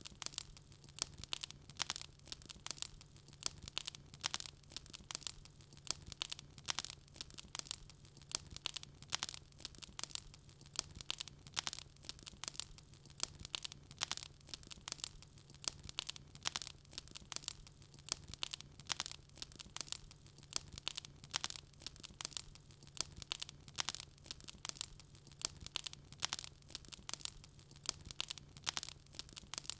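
Wood fire crackling: a dense, unbroken run of small sharp pops and snaps from burning logs, over a faint steady low hum.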